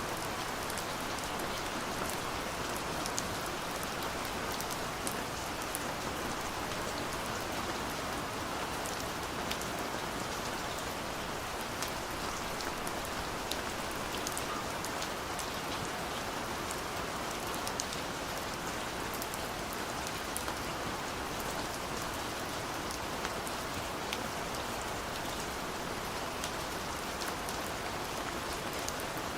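Steady light rain falling, an even hiss with fine patter of individual drops. No thunder or music.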